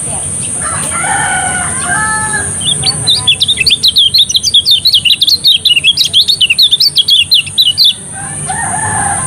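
Kecial kuning (lemon-bellied white-eye) singing a loud, rapid twittering run of high chirps for about five seconds. A rooster crows before the song and again near the end.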